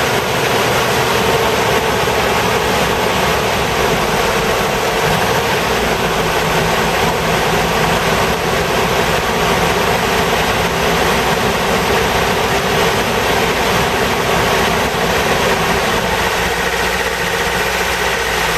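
Toyota Hiace van engine running, with its engine-driven cooling fan blowing hard because the new viscous fan coupling has locked in. A steady, loud rush of air over the engine note, which deepens slightly about five seconds in.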